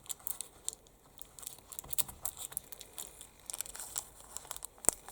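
Irregular light clicks and crinkling of hands working at a disassembled chainsaw handle and a strip found inside it, which he takes for electrical tape, with one sharper click near the end.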